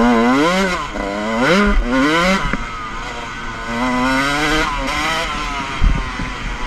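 Motocross bike engine revving hard and backing off three times, its pitch climbing and then dropping with each burst of throttle, steadier and lower between the second and third. A thump near the end.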